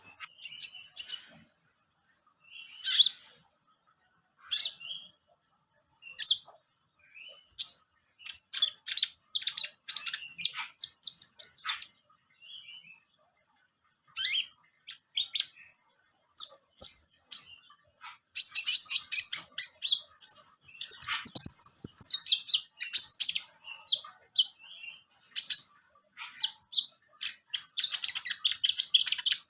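A caged songbird chirping and calling in short high notes, scattered at first and then in a dense run of chirps with a high whistled note that rises and falls about two-thirds of the way through.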